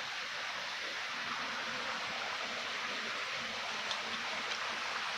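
Stream water flowing with a steady rushing hiss. A couple of faint high ticks sound about four seconds in.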